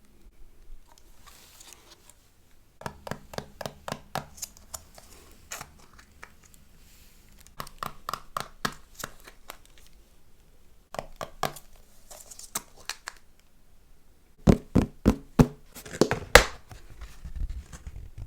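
Hands handling food and packaging: groups of sharp clicks and taps with some crinkling and tearing, and a run of louder knocks near the end.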